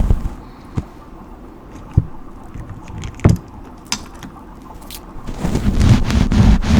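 Brush strokes close to the microphone: a few scattered soft taps at first, then from about five seconds in, rapid repeated strokes with a rustling, scratchy sound.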